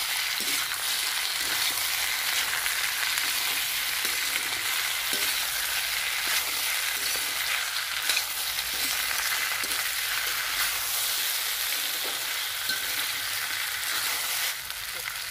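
Sliced taro root (arbi) sizzling in hot mustard oil in an iron kadhai, stirred with a steel ladle that scrapes and clicks against the pan.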